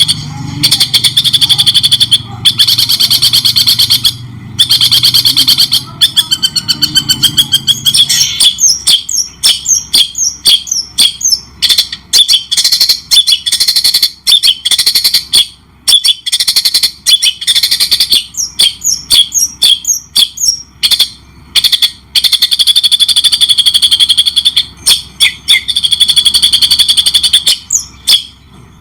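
Songbird singing loudly and without pause, a tutor song for training caged white-rumped shamas: fast repeated notes and trills at first, then a rapid chatter of short, sharp notes and quick glides broken by brief gaps.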